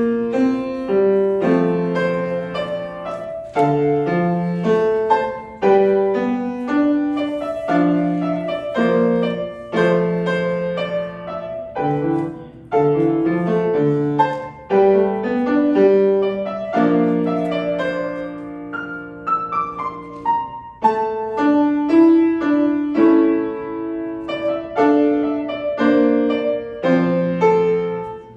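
Solo piano playing a light melody over left-hand chords in a steady rhythm, with a short falling run of notes about two-thirds of the way through.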